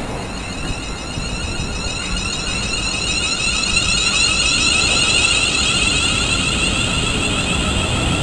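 Electric train at a station, a high warbling whine from its traction equipment over a low rumble, growing louder.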